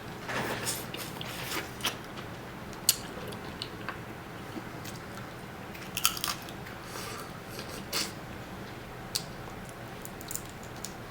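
Close-up eating sounds of Dungeness crab being chewed and bitten, with scattered sharp clicks and crackles, the clearest about three, six and eight seconds in.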